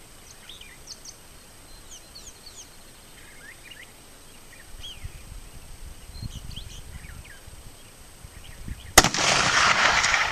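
A mockingbird sings a string of short, varied chirps and whistles, then about nine seconds in a single shot from a Remington US Model 1903 .30-06 rifle cracks out, the loudest thing here, its report rolling on and fading.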